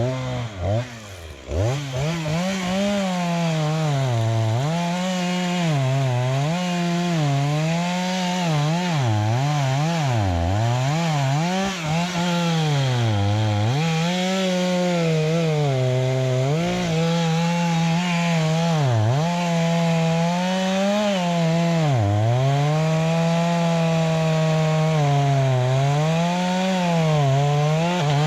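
Two-stroke chainsaw running at full throttle. It comes up to speed suddenly at the start, then its pitch repeatedly sags and recovers as the chain bogs under load cutting into the tree for felling.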